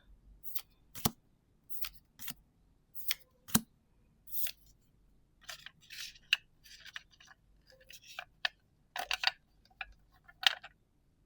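Trading cards being handled and flipped through one by one: irregular sharp clicks and short papery swishes of card sliding against card.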